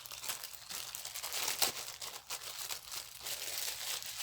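Crinkling and rustling as a pack of biscuit (cold porcelain) clay is handled, like plastic wrapping being worked open, in irregular crackles with a sharper crackle a little past the middle.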